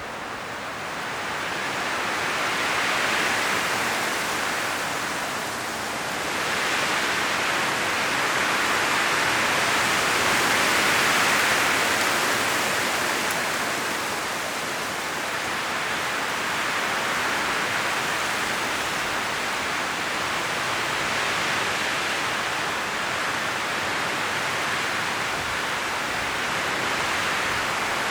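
Strong wind blowing through the trees of an autumn forest, a steady rushing of leaves with gusts swelling about three seconds in and again around ten seconds.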